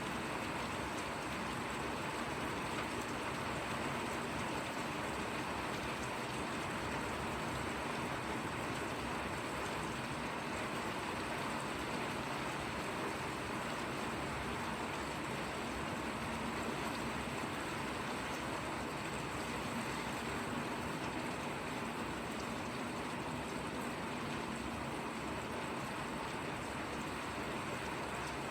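Steady, light rain falling: an even hiss with no breaks or changes.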